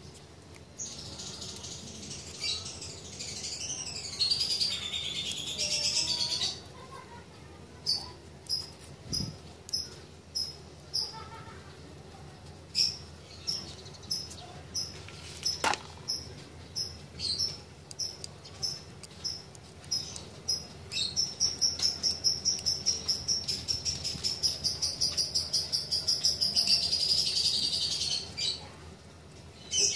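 A bird singing high and clear: a warbling phrase in the first few seconds, then short chirps about once a second, and a fast run of rapid chirps near the end. A single sharp click about halfway through.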